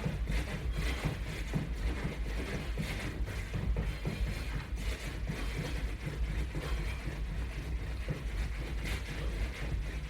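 Feet thudding in a steady rhythm while jogging in place against a resistance band, over a low steady hum.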